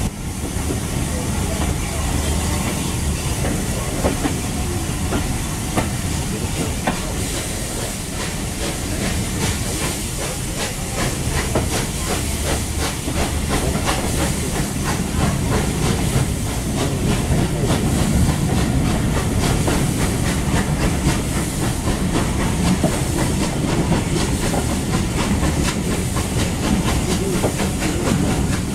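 Heritage passenger train running, heard from an open coach window: a steady rumble of wheels on the rails under a loud hiss, growing a little louder about a third of the way in.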